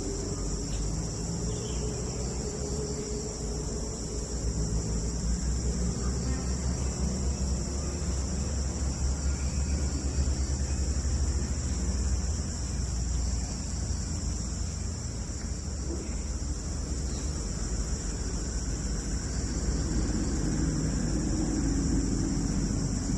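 Steady, high-pitched chorus of rainforest insects over a low rumble that swells between about five and thirteen seconds in.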